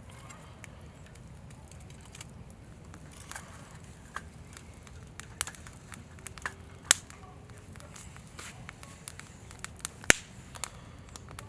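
Firewood burning in a campfire, crackling with scattered small snaps; two sharp pops stand out, the louder about ten seconds in.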